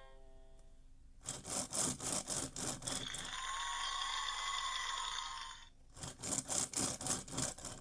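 VTech Go! Go! Smart Wheels toy race car making noise: quick rasping strokes about four a second, then a steady buzzing noise with a few held tones for a couple of seconds, then more rasping strokes.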